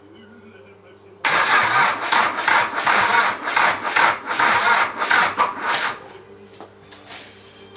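Starter motor cranking a cold Mazda 1.7 litre diesel engine for about five seconds in uneven pulses, starting suddenly and stopping without the engine catching. The owner puts the failure to start down to a weak battery.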